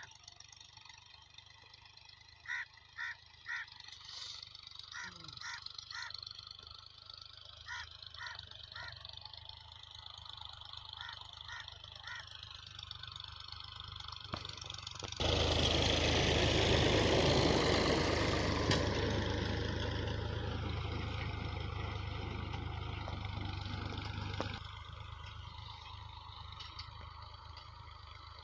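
Tractor engine running steadily while working a field. For about ten seconds in the middle it gets much louder and noisier, starting and stopping abruptly.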